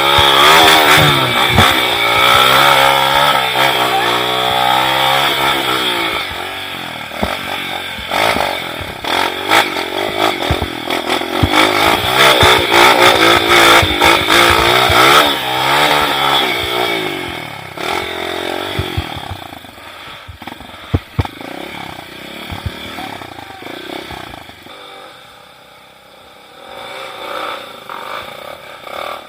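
Trail motorcycle engine revving up and down repeatedly, with sharp knocks and clatter. It is loud for the first half, fades away after about 17 seconds, and is faint near the end.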